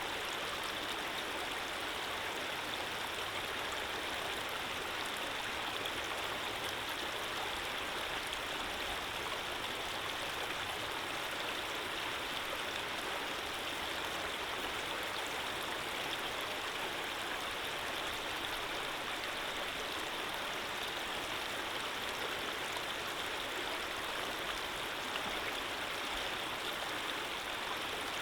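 Steady flowing water, like a gently running stream, an even rushing hiss with no separate splashes or changes.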